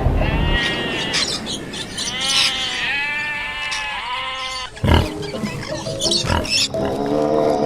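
Farm animal calls over background music: several pitched calls that rise and fall in pitch, a sudden loud burst near the middle, then a lower call starting near the end.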